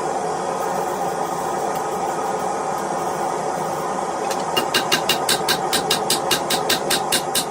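Steady roar of a blacksmith's forge. A little over halfway in, a hammer begins striking hot iron on the anvil: quick, evenly spaced ringing blows, about four a second.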